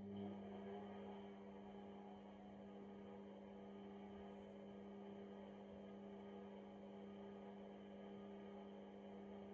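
AEG Lavamat 6610 washing machine giving a steady electrical hum that cuts off abruptly near the end.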